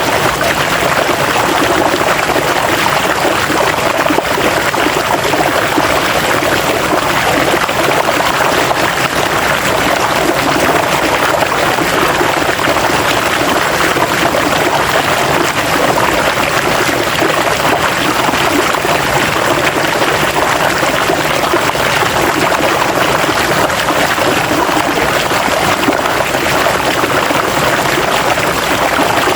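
River water flowing steadily over rocks, a continuous rushing and splashing with no pauses.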